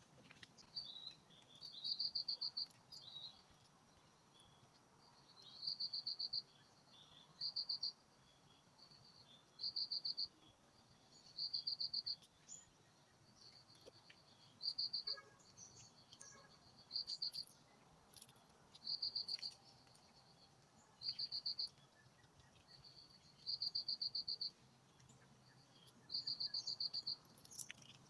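Insect chirping: short, evenly pulsed high-pitched trills repeating about every two seconds, with fainter trills in between.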